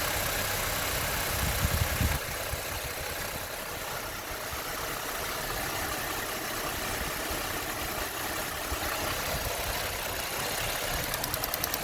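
Saturn Aura's 3.5-litre V6 idling with a cylinder 6 misfire (codes P0306 and P0300), which leaves the idle uneven. A fast, even ticking starts near the end.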